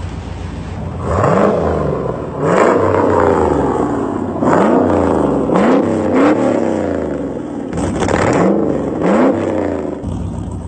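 The Fast and Furious 8 Ice Charger movie car's engine being revved in a series of short throttle blips, about seven, each rising in pitch and dropping back to idle.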